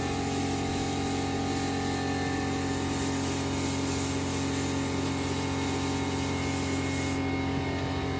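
Air spray gun spraying a light coat of kandy paint: a steady hiss that eases off about seven seconds in, over a steady hum.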